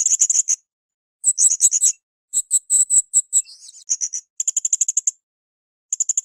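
Blue-crowned hanging parrot (serindit) calling: about six short bursts of rapid, high-pitched chattering trills, each under a second long, with brief gaps between.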